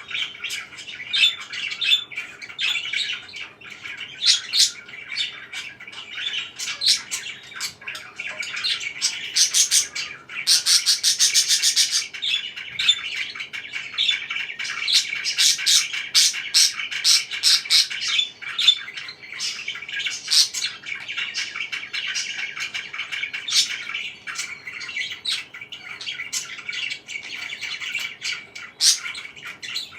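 Pet parakeets chirping and squawking non-stop in a dense chatter of short, high calls. About ten seconds in there is a fast run of rapid clicks lasting under two seconds.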